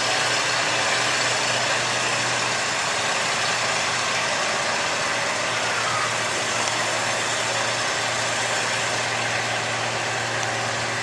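Gas-engined 4x4 pickup truck pulling a weight-transfer sled down the track, its engine running loud and steady under load throughout.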